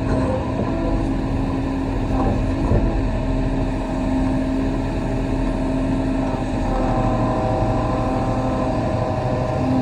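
Kobelco SK35 mini excavator's diesel engine running steadily under work, its pitch shifting slightly now and then.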